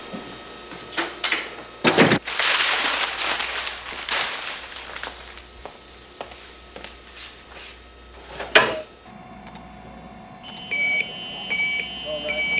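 Knocks and clicks with a stretch of rushing noise, then a sharp knock about eight and a half seconds in. A low steady hum follows, and from about ten seconds an electronic warning tone beeps roughly once a second: the alarm signalling that the facility's nuclear reactor is being fired up.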